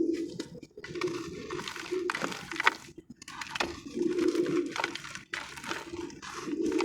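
Sand-and-cement discs crumbling in water and being squished by hand, giving repeated crackly crunches and wet squishing.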